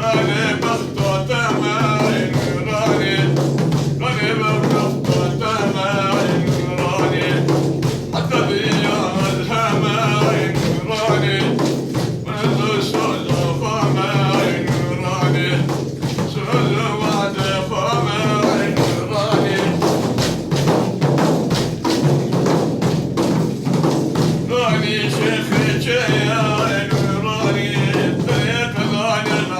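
A man singing an Arabic madh, a Sufi devotional praise song, in long ornamented phrases over steady hand-drum beats.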